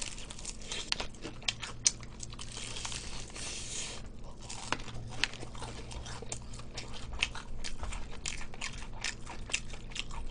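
Close-miked crunching and chewing of crispy fried chicken (BBQ Golden Olive Chicken), full of sharp crackles, densest about two to four seconds in.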